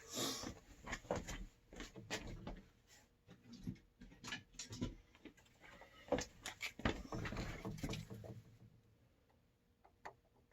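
Irregular clicks, knocks and rustling from handling the electric water heater's thermostat access cover and insulation, stopping about eight and a half seconds in, with a couple of faint clicks after.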